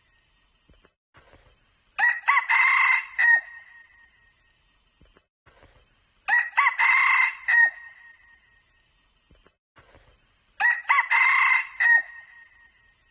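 A junglefowl cock crowing three times, evenly spaced about four seconds apart, each crow a short, ringing call of about a second and a half.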